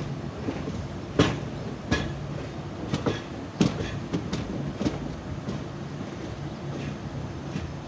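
Ananthapuri Express passenger train running: a steady rumble and hum, with several sharp, irregular clacks of the wheels over rail joints during the first five seconds.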